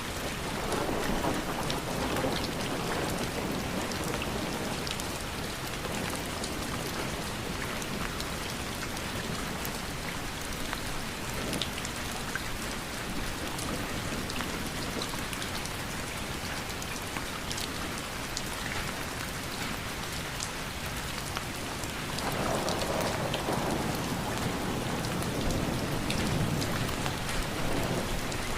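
Steady rain falling, with individual drops pattering on a surface. A low rumble of distant thunder swells up near the start and again, more strongly, near the end.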